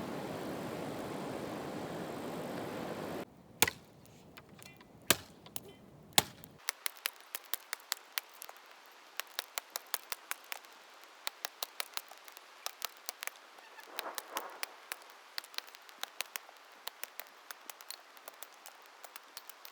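A steady rushing noise cuts off about three seconds in. Then come quick, sharp knocks of a knife chopping on a cutting board, about two to three a second, with a few louder strokes at first.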